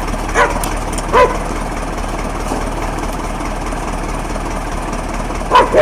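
A dog barking: two barks in the first second and a half and another near the end, over a steady background noise.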